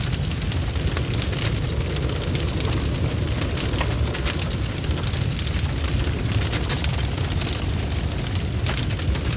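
Wood fire burning steadily, with a continuous low rumble and frequent sharp crackles and pops from the burning wood.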